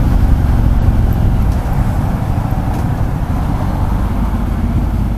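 Ducati Multistrada 1200 S's L-twin engine running at speed, under a heavy, fluttering low rumble of wind and road noise on the microphone.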